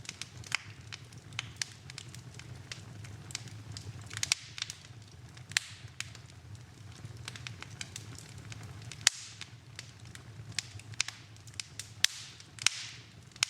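Wood fire in a fireplace crackling: irregular sharp pops and snaps, a few louder ones trailing a brief hiss, the sharpest about nine seconds in, over a steady low rumble of the flames.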